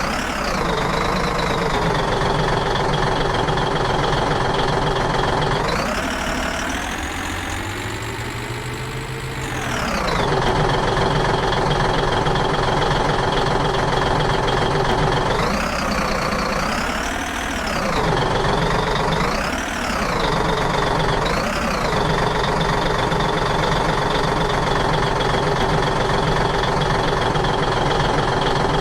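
A vehicle or machine motor running steadily. About six seconds in its pitch climbs, holds, then drops back around ten seconds. Between about 15 and 22 seconds it swells and eases off three times.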